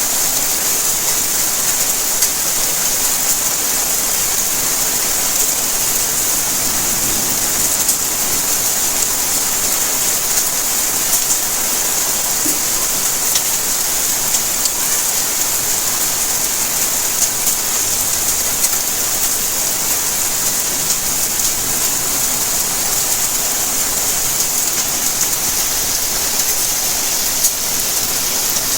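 Steady rain falling, a continuous hiss with many small drop ticks on surfaces.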